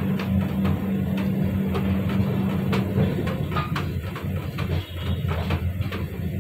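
Passenger train running, heard from the open doorway of its coach: a steady low rumble, heavier for the first three seconds or so, with irregular clacks of the wheels over the rail joints.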